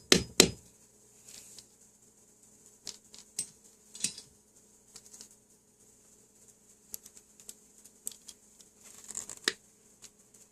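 Handling noise of small hard objects, most likely tools and parts: three loud knocks right at the start, then scattered light clicks and taps, and a brief scrape with clicks about nine seconds in.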